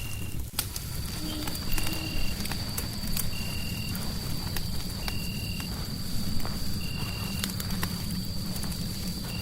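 Fireplace crackling: many sharp pops and snaps over a steady low rumble of the burning fire. Over it, a short high chirp repeats about every second and a half, and a thin high steady tone sets in about half a second in.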